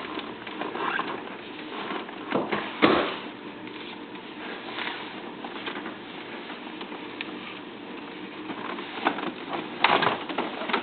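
Irregular light clicks and rattles with a few louder knocks, a wheelchair's frame and parts being handled and knocked against a pickup's cab as it is folded and pulled in. The loudest knocks come about three seconds in and again near the end.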